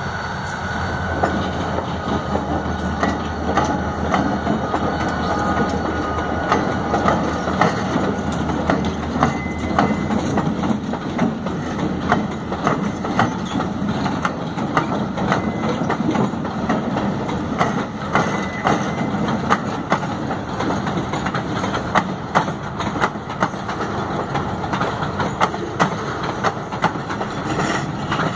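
EMD SD40-2 diesel locomotives running past with a steady low rumble, loudest in the first few seconds. Then a freight train's wheels clack over rail joints, many sharp clacks spread irregularly throughout.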